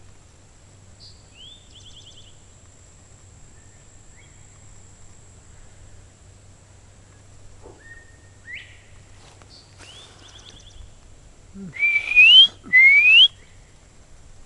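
Whistled calls traded between a bird and a person imitating it. Several faint rising whistles, some ending in a quick trill, are followed near the end by two loud rising whistles in quick succession.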